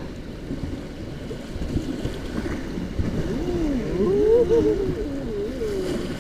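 River water rushing past a raft, with wind buffeting the microphone. In the second half a voice calls out in long, wavering, gliding tones, the loudest sound here.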